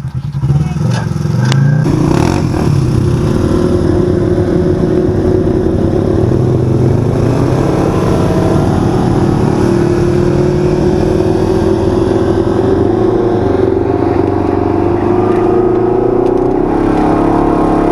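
A 1000 cc side-by-side UTV's engine running loud under throttle, its pitch drifting up and down as it drives. It picks up about half a second in, with a few sharp knocks in the first two seconds.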